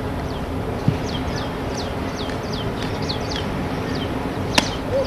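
A bird chirping repeatedly in short, quick downward-sliding notes, two or three a second, over steady background noise. A single sharp click stands out about four and a half seconds in.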